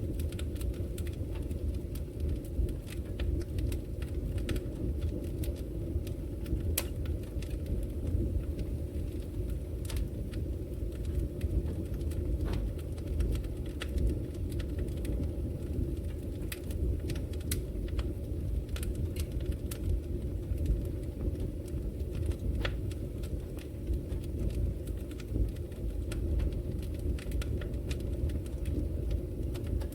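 Fire burning in a fireplace: a steady low rumble of flames with scattered sharp crackles and pops at uneven intervals.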